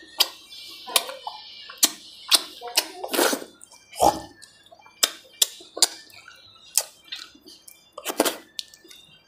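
Close-miked mukbang eating: wet chewing, lip-smacks and irregular sharp mouth clicks as a man eats fish curry with rice by hand.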